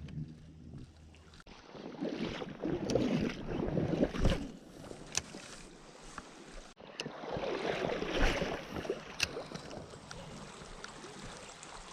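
River water splashing and sloshing in two bouts, one starting about a second and a half in and the other about seven seconds in, with a few sharp clicks in between.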